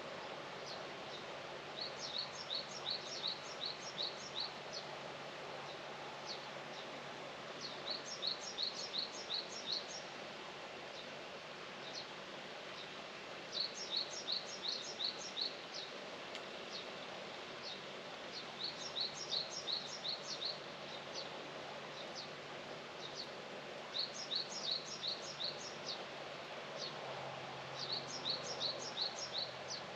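A songbird singing the same short phrase over and over, a quick run of about half a dozen high chirps lasting a couple of seconds and repeated about every five to six seconds, with a few single call notes between. Under it is a steady outdoor background hiss.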